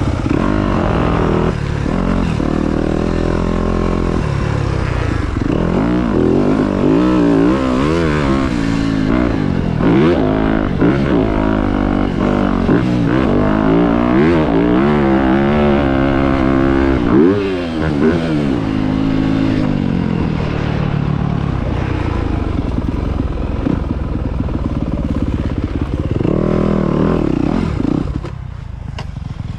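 Motocross bike engine revving up and down repeatedly as it is ridden over the track's jumps, its pitch climbing and falling many times. It drops to a lower, quieter run near the end.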